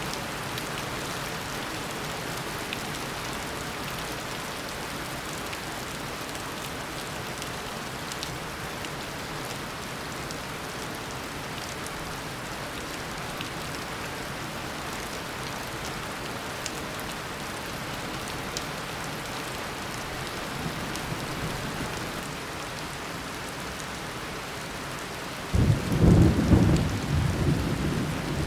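Steady tropical downpour, an even hiss of rain falling on surfaces. Near the end thunder breaks in suddenly and loudly and rumbles on.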